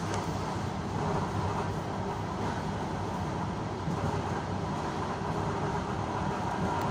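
Train running along the track, heard from inside the carriage: steady wheel-on-rail rumble and running noise.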